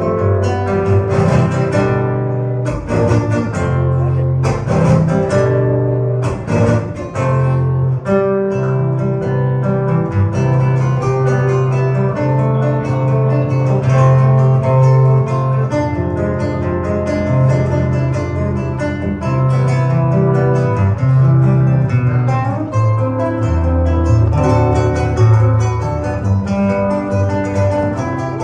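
Acoustic guitar music in a flamenco style, fast plucked and strummed passages for the first several seconds, over sustained low notes, then slower melodic playing.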